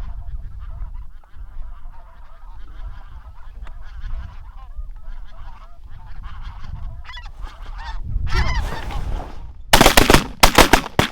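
A flock of geese honking overhead in a steady, overlapping chorus. Near the end comes a quick volley of loud shotgun blasts as the hunters shoot into the birds.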